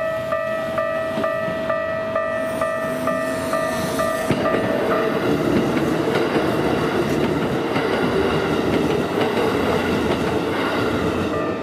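Japanese level-crossing warning bell ringing in a steady rapid clang, about two and a half strokes a second. About four seconds in, a Keikyu 1500-series electric train runs past over the crossing and its running noise drowns out the bell.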